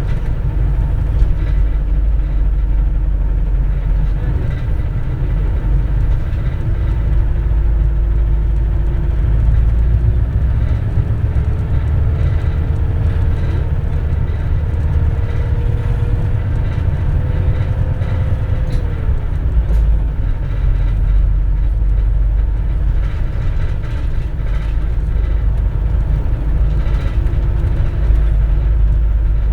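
Inside a 2004 compressed-natural-gas city bus under way: heavy, steady engine and road rumble with a thin whine that climbs slowly in pitch for about ten seconds, drops sharply about two-thirds of the way through, and starts climbing again near the end.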